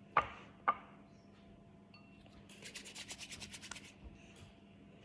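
Hard-boiled eggshell being broken and peeled: two sharp taps, then about a second of quick, even rasping strokes as the shell is rubbed off.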